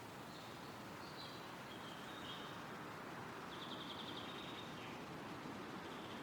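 Wind rustling through trees as a steady hiss, with faint songbird calls high above it: a few short notes, then a rapid trill about three and a half seconds in.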